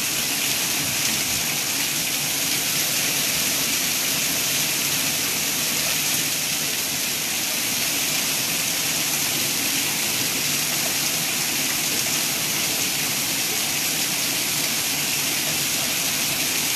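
Torrential rain pouring down in a steady, dense hiss, a cloudburst heavy enough to flood the street.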